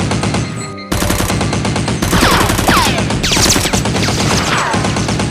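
Rapid automatic gunfire sound effects, dubbed over a Nerf-blaster shootout. A short lull comes just before one second in, and from about two seconds in falling whistling tones run through the bursts.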